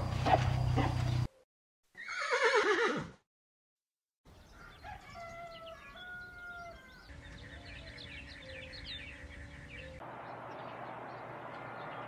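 Short animal sound clips cut together with silent gaps: a single horse whinny falling steeply in pitch about two seconds in, then farmyard fowl and small birds calling and chirping, then a steady outdoor hiss near the end.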